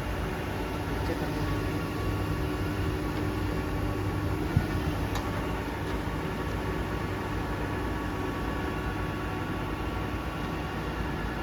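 Grisetti RU 2000 hydraulic cylindrical grinding machine running with a steady hum and a few constant tones, with no knocking from motor or gearbox. A single sharp click comes about four and a half seconds in.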